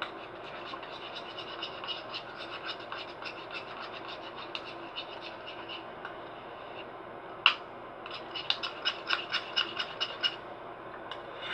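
A utensil stirring and scraping a hand-soap-and-salt slime mixture in a bowl, in a quick irregular series of scrapes. A single sharp knock comes about seven and a half seconds in, followed by a faster run of scrapes.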